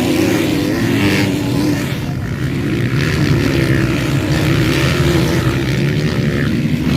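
Motocross bike engines running hard and revving, their pitch rising and falling as the bikes race.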